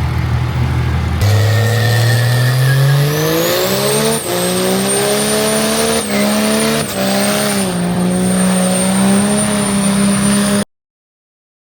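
Engine revved hard for a burnout: it climbs in pitch and is held high, with a high whistle rising and then holding steady, and a few short dips in pitch. The sound cuts off abruptly near the end.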